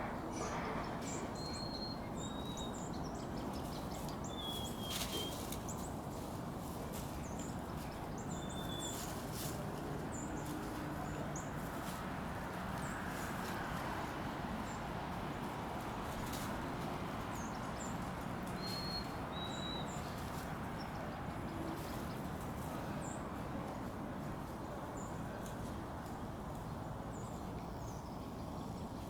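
Dry fallen leaves rustling and crackling as kittens play in them, over a steady outdoor hiss, with a few pairs of short high bird chirps.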